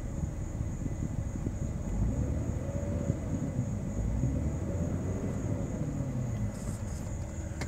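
The 4.0-litre straight-six of a 2003 Jeep Grand Cherokee and road rumble, heard from inside the cabin while driving at low speed. About two seconds in, the engine hum rises in pitch, then falls back over the next few seconds.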